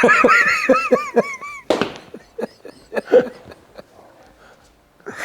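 Hearty laughter: a quick run of repeated "ha" pulses for the first second and a half or so, then trailing off into scattered chuckles.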